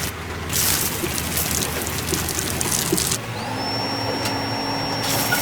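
Machinery running with a steady rushing noise; about three seconds in the sound changes abruptly and a high whine rises, then holds steady.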